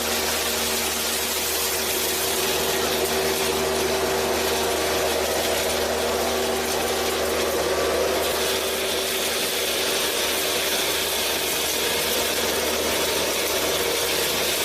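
Small motor of a homemade miniature flour mill running steadily, with a constant whirring hum and mechanical rattle.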